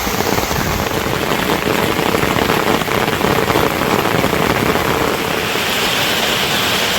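Steady rain falling, a loud even patter that turns into a smoother hiss about five seconds in.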